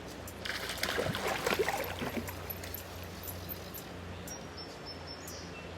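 Water splashing and churning for about a second and a half as a hooked largemouth bass thrashes at the surface, starting about half a second in. A steady low hum runs underneath.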